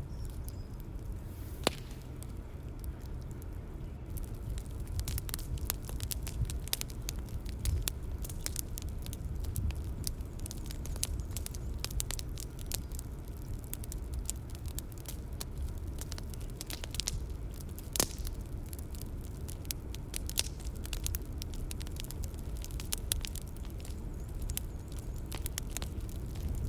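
Bonfire crackling: a steady low rumble of burning with a dense run of sharp pops and snaps, two of them louder, one about two seconds in and one near the middle.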